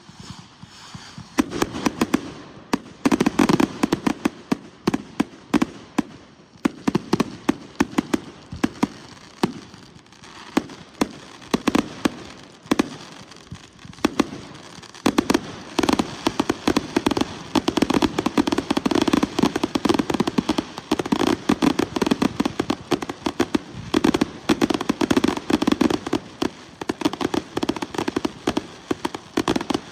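Consumer fireworks display going off: a rapid barrage of sharp bangs with crackling between them, many reports a second. It starts about a second and a half in and gets denser and more continuous in the second half, like a finale.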